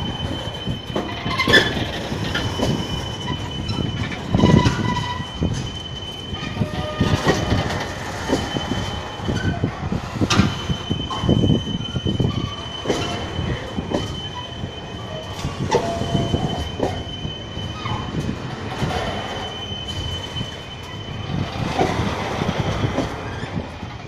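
Railway wagons rolling slowly over a level crossing, the wheels squealing in high thin tones and knocking irregularly over the rail joints.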